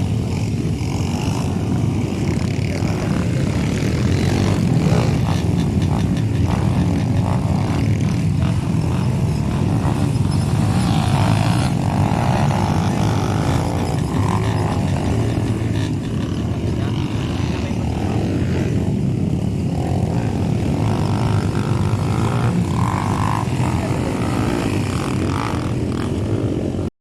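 Motocross dirt bike engines running, a steady drone.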